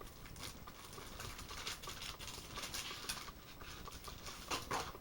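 Plastic toy jet parts being handled during assembly: scattered light clicks and rustles, with a louder scrape near the end.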